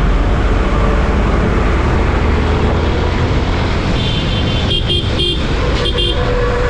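Steady, loud rush of a motorcycle riding along a highway: wind and road noise over the bike's running engine. From about four seconds in, a few short high-pitched tones sound, broken by brief gaps.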